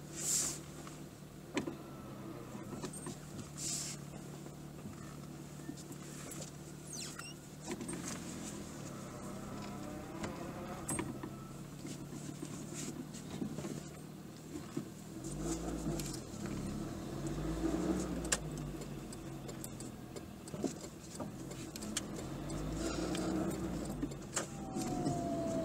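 Car engine heard from inside the cabin: a steady low hum at first, then the engine pitch rising and falling several times as the car pulls away and accelerates through the gears. A couple of short hisses come near the start.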